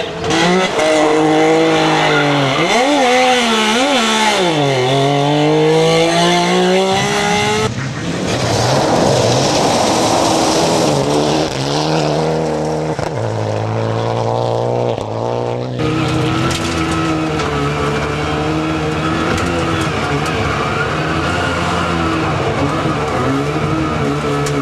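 Rally car engines revving hard, the pitch swinging up and down with throttle and gear changes, with a stretch of tyre skidding noise in the middle. The sound changes abruptly twice, from one car passage to another.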